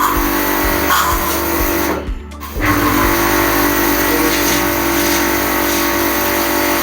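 Aimex D7 electric pressure washer's motor and pump running with a steady hum, cutting out briefly about two seconds in and then starting up again.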